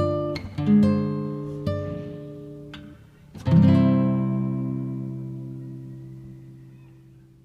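Background music on acoustic guitar: a few plucked and strummed chords, then a final chord about three and a half seconds in that rings out and slowly fades.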